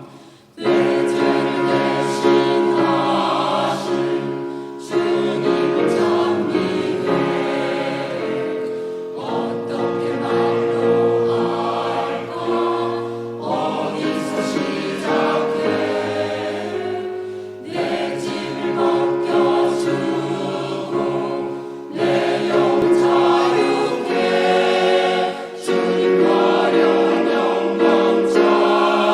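Catholic parish choir singing sacred music in harmony, recorded live at a concert: long held chords in phrases, with short breaths between them.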